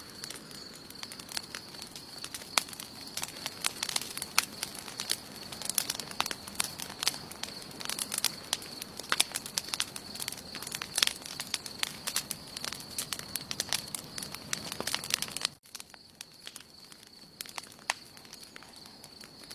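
Wood fire burning, with dense sharp crackles and pops that thin out suddenly about three quarters of the way through, over a steady high-pitched tone.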